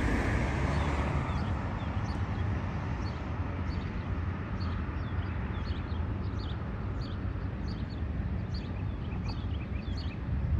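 Steady low rumble of a freight train's double-stack intermodal cars rolling past on the grade. Small birds chirp again and again from a few seconds in.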